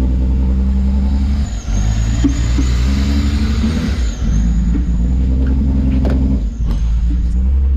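BMW E36 engine running just after a head gasket replacement, its revs surging and sagging with brief dips every couple of seconds, and a few sharp clicks in the second half. The idle is unsteady with the RPMs jumping up and down, which the owner suspects is a vacuum leak or something not plugged in right.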